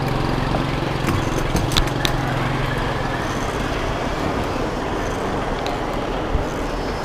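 Street traffic noise with a steady vehicle engine hum that fades out about three seconds in, plus a few faint clicks.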